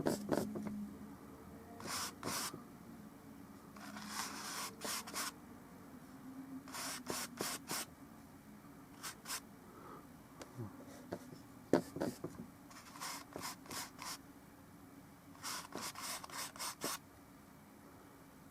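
Oil-paint brush strokes on a painting surface: short scratchy dabs and rubs that come in quick clusters every few seconds. A single sharp tap comes near the middle.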